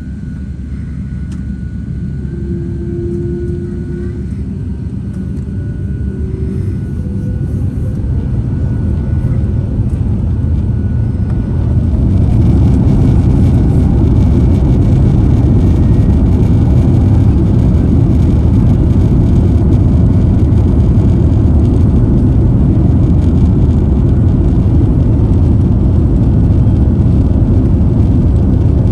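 Jet airliner engine noise: a low rumble that grows louder over about twelve seconds, then holds steady and loud.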